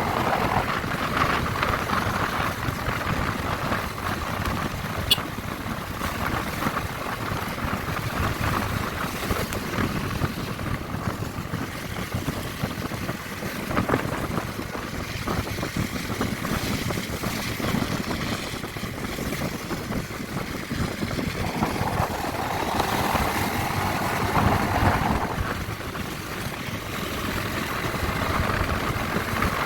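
Honda CB150R's single-cylinder engine running as the motorcycle rides along, under wind noise on the microphone.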